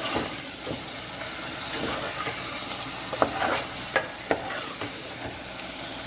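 Chicken leg pieces with tomato and spice paste sizzling in hot oil while being stirred, the spoon scraping and knocking against the pan a few times.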